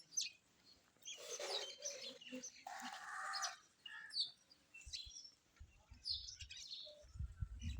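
Birds chirping and calling in short scattered bursts, with a low rumble near the end.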